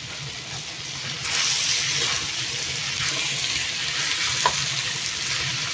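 Diced chayote sizzling in hot oil and fried spice paste in a steel wok while a spatula stirs it; the sizzle swells about a second in and stays loud.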